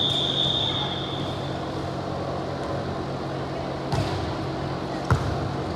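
A referee's whistle held in one long high note that fades out in the first second and a half. A steady low hum runs underneath, and two sharp thumps come near the end.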